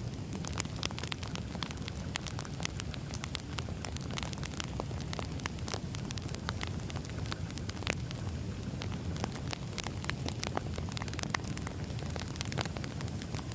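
Wood fire crackling: frequent irregular sharp pops and snaps of burning firewood over a low steady rumble of the flames.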